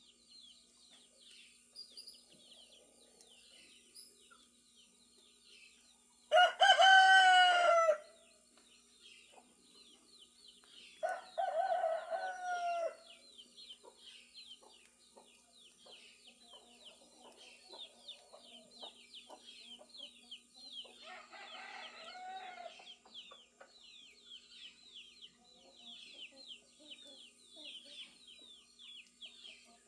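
Roosters crowing three times, each crow about two seconds long: the first about six seconds in and loudest, the next a few seconds later and quieter, the last fainter still. Underneath, small birds chirp steadily throughout.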